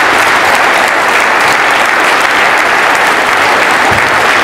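Live wrestling crowd applauding steadily, a dense sustained clapping.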